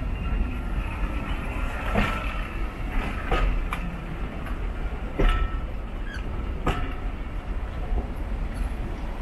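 Railway passenger coaches rolling past close by: a steady low rumble of wheels on rail with a sharp clack every second or two as wheelsets cross rail joints.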